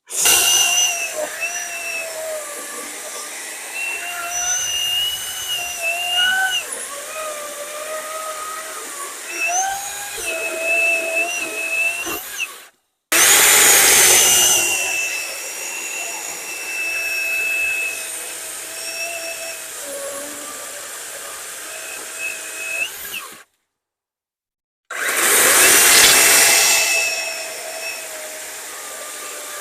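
Worx WG385E cordless electric chainsaw cutting through logs: a steady electric motor whine with chain noise, its pitch wavering and dipping as the chain bites into the wood. It comes in three separate runs, each opening with a louder surge.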